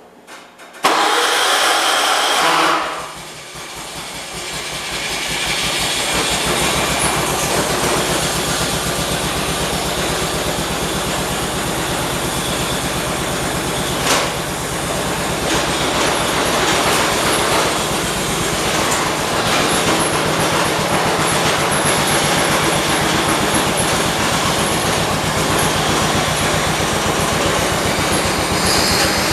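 Small garden tractor engine cold-starting after sitting for a couple of days: a short burst of cranking about a second in, then the engine catches, picks up over a few seconds and runs steadily with a rhythmic pulse.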